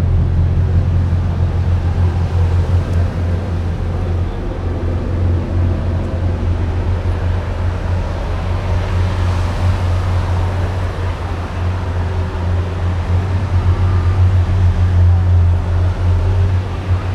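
Steady low drone of a moving car with road noise. A louder rush of noise swells about halfway through.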